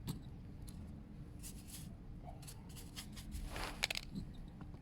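Faint handling noises: a few small clicks and a short scrape or rustle about three and a half seconds in, over a steady low hum.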